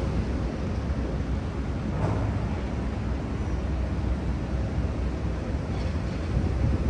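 Outdoor city street noise: a steady low rumble of traffic.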